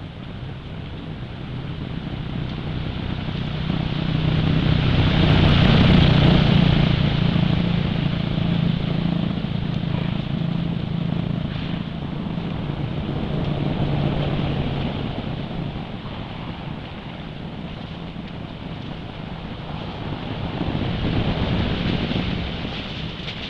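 An engine running steadily, growing louder about a quarter of the way in and again near the end, with wind rumbling on the microphone.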